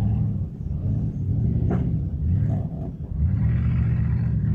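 Truck engine running with a low, steady rumble that eases briefly and picks up again about three seconds in.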